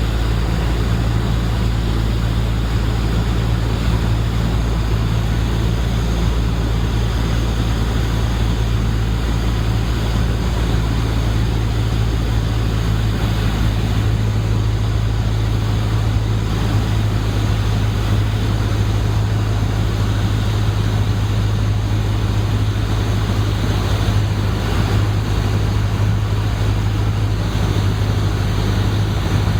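Cessna 152's four-cylinder Lycoming engine and propeller droning steadily, with a hiss of rushing air over it.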